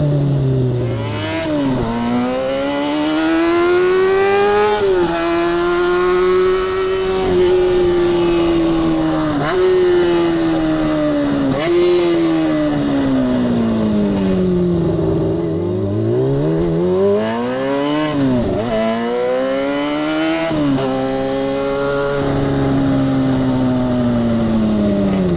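Kawasaki Balius 250's inline-four engine and exhaust under riding. The engine note climbs and drops sharply several times as it pulls through the gears, and glides down in long falls as it slows.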